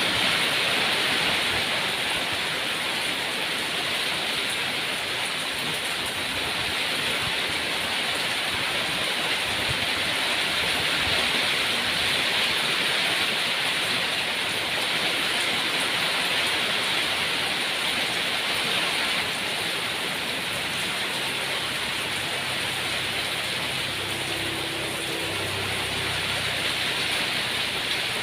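Steady, even rainfall. A faint low hum or rumble joins near the end.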